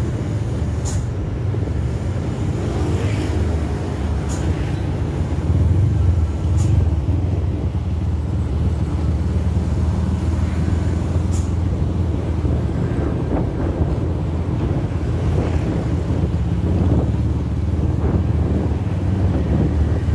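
Engine running steadily with a low, even hum, a few sharp knocks or clicks over it.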